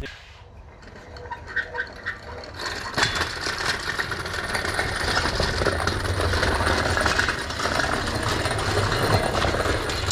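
A few light metallic clinks, then from about three seconds in a dense, steady mechanical rattle that cuts off suddenly at the end.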